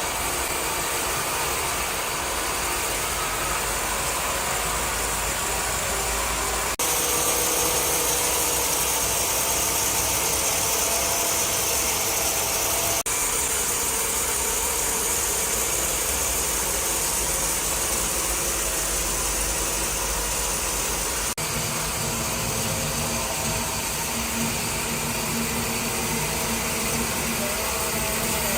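Wood-cutting saw machinery running steadily, a continuous loud motor and mechanical noise. Its sound shifts abruptly three times, at about 7, 13 and 21 seconds in.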